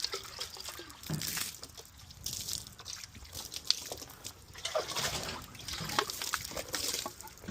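Water trickling and splashing in uneven spells, with scattered small clicks and knocks.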